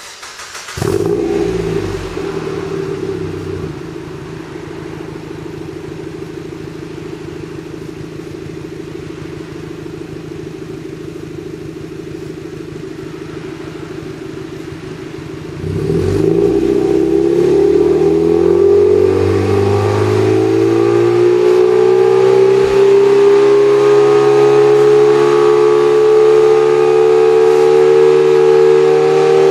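Exhaust of a Mazda Roadster NB8C's 1.8-litre inline-four through a one-off 57.2 mm stainless-steel exhaust. The engine starts about a second in, runs briefly at a higher, louder idle, then settles to a steady idle. About halfway through, the revs rise smoothly and are held at a steady higher engine speed.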